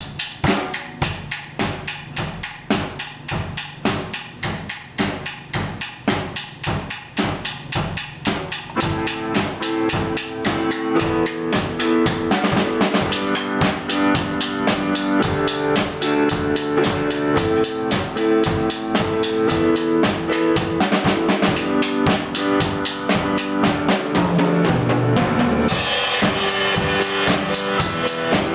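Drum kit played with a steady beat, alone at first; about nine seconds in a second instrument joins with sustained pitched notes, and the two play on together.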